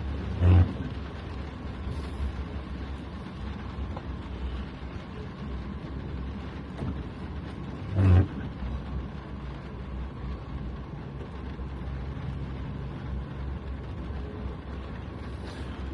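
Car engine and road noise heard from inside the cabin while driving, a steady low rumble. Two brief louder sounds come about half a second in and again about eight seconds in.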